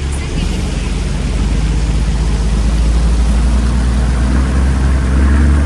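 Fishing boat's engine running with a steady low drone, growing gradually louder as it speeds up.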